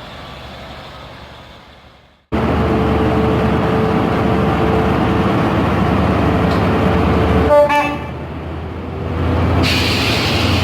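A train horn fades away, then cuts off abruptly. After the cut comes the loud rumble of a train with a steady tone over it, then a short horn-like blast about seven and a half seconds in.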